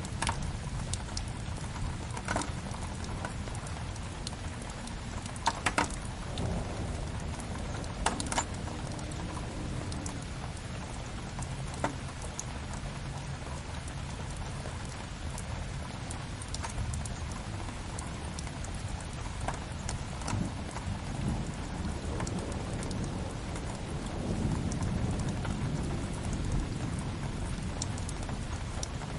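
Steady rain on a window mixed with a crackling wood fire, with a few sharp pops now and then, several of them in the first dozen seconds. A low rumble swells slightly near the end.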